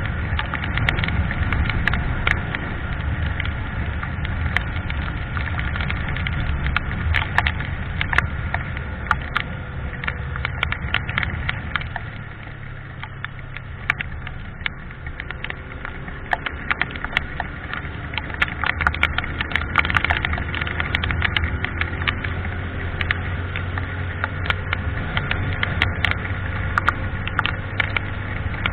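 Yamaha FZ25 motorcycle's single-cylinder engine running steadily under way, with many sharp crackles and clicks over it. The engine pitch rises slightly in the second half.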